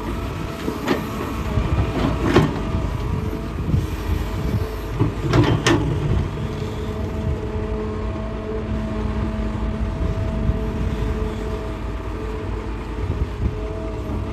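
Hitachi hydraulic excavator running steadily while digging rock, its engine and hydraulics giving a steady whine. Several sharp knocks of the bucket against rock come in the first six seconds, two of them close together near the middle.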